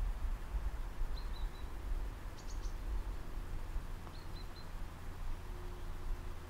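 A small bird chirping twice, each time a quick run of three or four high notes, over a steady low rumble.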